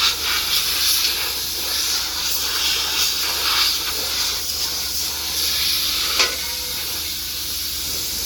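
A steady, loud rushing hiss with no clear pitch, cutting off abruptly near the end.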